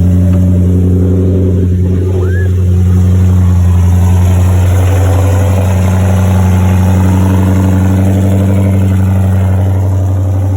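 Car engine idling steadily through a really loud aftermarket exhaust, with a slight rise in engine note about two to three seconds in.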